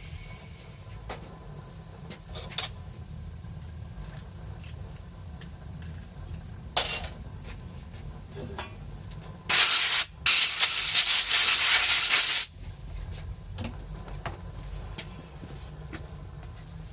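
Compressed air hissing out in a loud blast of about three seconds near the middle, briefly broken near its start and cut off sharply, after a shorter puff a few seconds earlier; a few light clicks of work on the truck's air-brake line around it.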